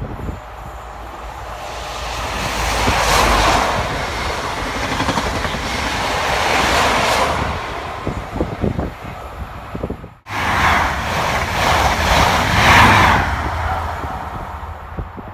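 Two Class 43 High Speed Trains, each with diesel power cars, passing one after the other: the first swells to a loud rush of engine and wheel noise and dies away, the sound breaks off abruptly about ten seconds in, and the second rises to a loud peak and fades.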